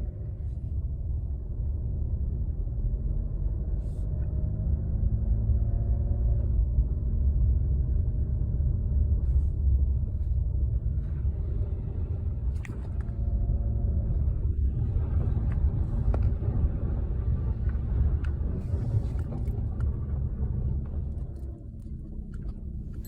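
Car driving slowly on a snowy road, heard from inside: a steady low rumble of engine and tyres, the engine note drifting up and down a little, with a few light clicks.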